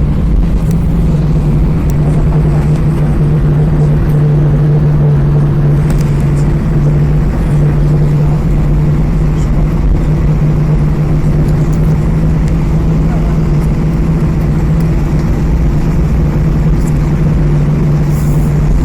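Steady cabin drone of an Airbus A320 on the ground with its jet engines running at low taxi power: an even low hum with a few faint ticks.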